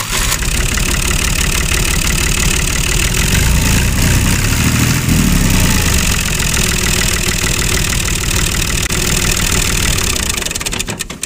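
Steady tractor engine idling sound from a miniature model tractor, with a fine, rapid pulse, fading out near the end.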